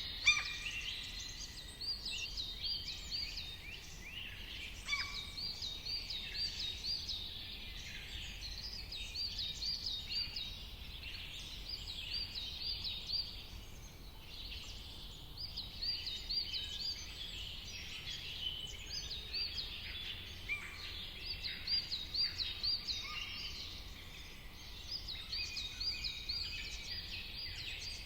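A dense chorus of many songbirds chirping and calling over one another, with quick repeated looping notes, over a faint steady low rumble.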